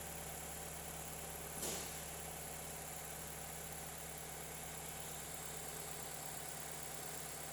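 2007 Chevrolet Cobalt's four-cylinder engine idling steadily, with one brief sharp click about a second and a half in.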